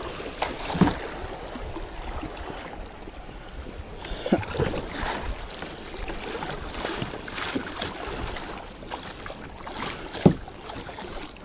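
Kayak paddle strokes splashing in river water, irregular and unhurried, with a few sharper splashes or knocks, the loudest about a second in and near the end.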